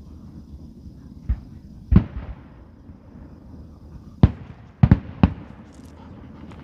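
Fireworks going off: about six sharp bangs at irregular intervals. One comes about two seconds in, and a quick cluster of three follows a little after the middle.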